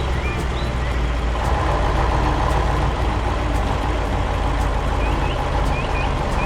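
Heavy truck engine running with a steady low rumble that grows a little louder about a second and a half in. Short high chirps, like small birds, sound over it near the start and again near the end.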